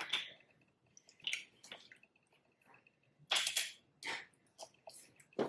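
A person eating close to the microphone: wet chewing and lip-smacking sounds in short, irregular bursts.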